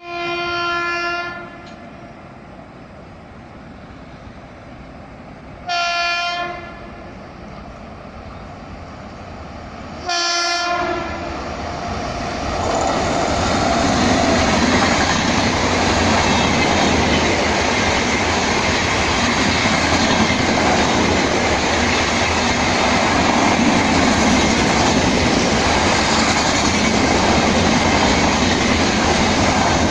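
Indian Railways express train passing through a station at high speed: its horn sounds three short blasts, the first at the start, then about 6 and 10 seconds in. From about 12 seconds in the train rushes past, with a loud, steady rush and clatter of wheels on the rails.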